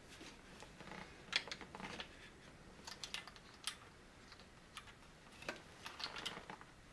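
Faint, scattered clicks and light taps, irregular and a few per second at most, from small things being handled; no engine running.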